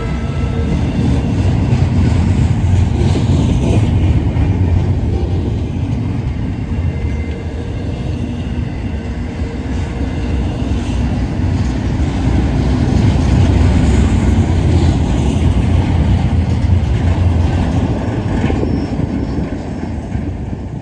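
Freight train rolling past with a steady, heavy rumble of wheels and cars, swelling and easing, and dropping somewhat near the end.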